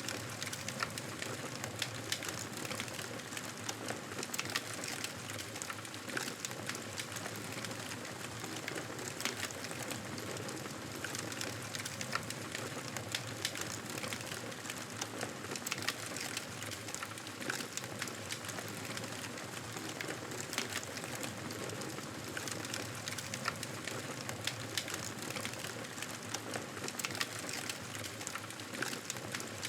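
Wood fire crackling in a fireplace: a steady hiss with sharp pops and snaps at irregular moments.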